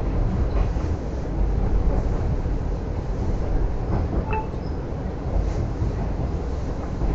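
Double-decker passenger train running into a station: a steady low rumble from the running gear, with a few light metallic clinks and a short squeak about four seconds in.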